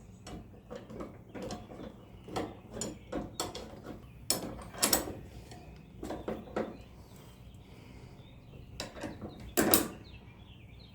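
Hand tools working on metal fittings: irregular clicking, scraping and clanking as bolts are loosened with a wrench, with a few louder knocks about four to five seconds in and again near the end.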